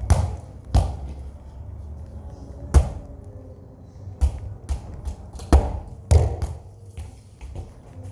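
A ball being struck and bouncing: about seven sharp thumps at uneven intervals over a low rumble.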